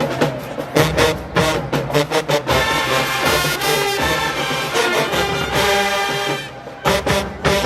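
HBCU show-style marching band playing: drum hits at the start, then the brass section holds long loud chords for about four seconds. A short dip follows, and the drums come back in near the end.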